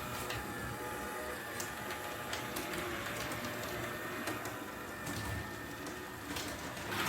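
HO-scale model train running on the layout: the steady whine of its small electric motor, with scattered clicks from the wheels on the track.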